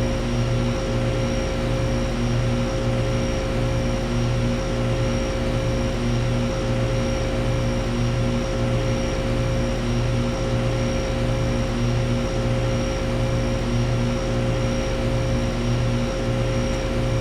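Air-conditioner outdoor condensing unit running steadily. It gives a low hum that throbs evenly and a few steady higher tones over a fan-like rush.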